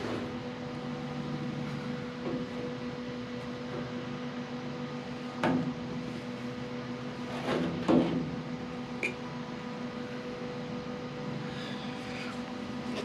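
Steady mechanical hum with a few sharp knocks, loudest about five and a half and eight seconds in.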